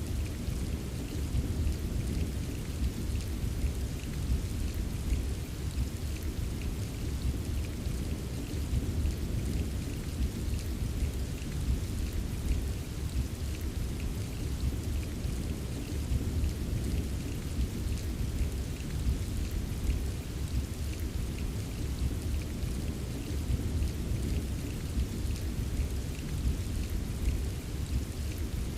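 Steady rain ambience: an even wash of rainfall with a deep, continuous low rumble and a faint patter of drops, with no distinct thunderclaps.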